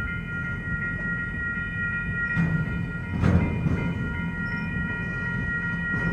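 Norfolk Southern freight train rolling past: the cars rumble low over the rails, with one heavy clank a little past the middle. Steady high ringing tones sound over the top throughout.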